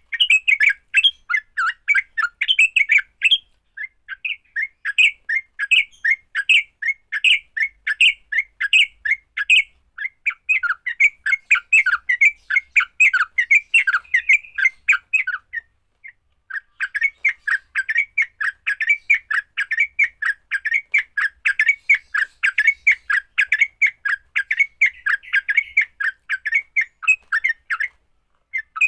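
Yellow-vented bulbul (trucukan) giving its fighting call: long runs of rapid, harsh chattering notes, broken by short pauses about 4 s and 16 s in and near the end.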